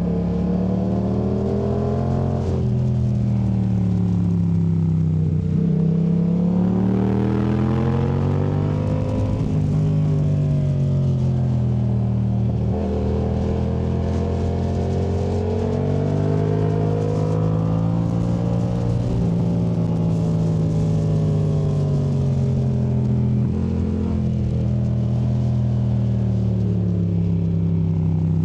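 2019 Yamaha MT-07's parallel-twin engine through a Yoshimura AT2 race exhaust, revving up and dropping back again and again every few seconds as the bike accelerates out of corners and rolls off into the next ones, held mostly in third gear.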